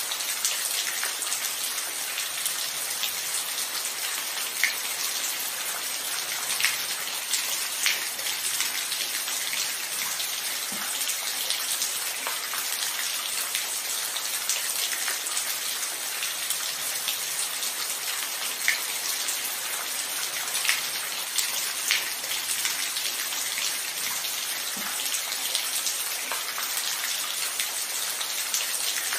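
Steady rain falling: an even, high hiss with scattered louder drops ticking close by.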